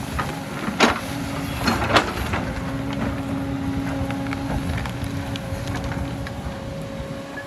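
Excavator engine running steadily with a held whine, and sharp knocks about one and two seconds in.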